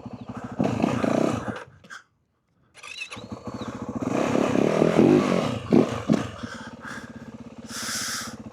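Yamaha WR450F single-cylinder four-stroke dirt bike engine revving up and down in bursts. The sound cuts out briefly about two seconds in, then comes back with stronger revs, and there is a short hiss near the end.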